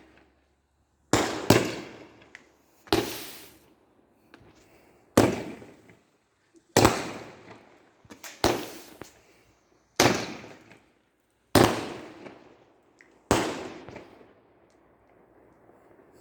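Fireworks going off in a series of about nine sharp bangs, roughly one every one and a half to two seconds, each dying away over about a second.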